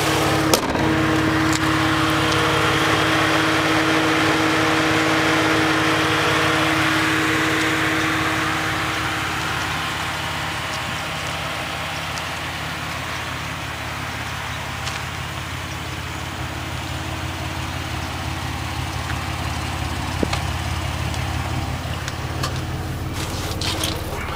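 2006 Ford Mustang's 4.0 L V6, fitted with Flowmaster mufflers, idling steadily. A rushing noise rides over the idle and fades away from about eight seconds in.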